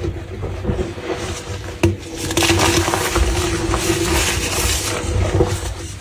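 Crunchy, brittle crumbles being crushed: a dense crackling crunch with many small snaps, one sharp crack just before two seconds in, and a fuller crunching from about two to five seconds in.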